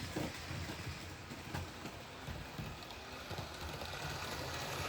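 Model train running steadily around a layout track, a continuous rumble of the motor and wheels on the rails with a few small clicks.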